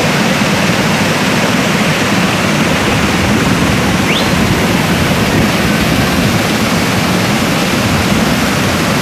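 Waterfall rushing, a loud steady roar of falling water. A short, high rising note sounds once about four seconds in.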